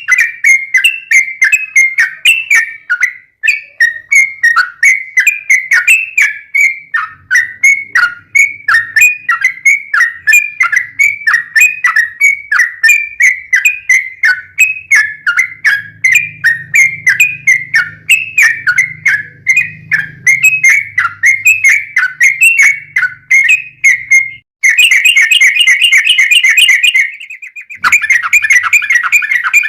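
Yellow-vented bulbul (trucukan) singing a long, rapid run of repeated chirping notes, about three a second. Near the end the song breaks twice into a much faster rolling trill.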